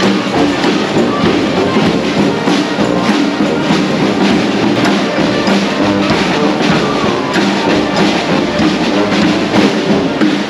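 Street parade band playing music, with drums and percussion beating steadily.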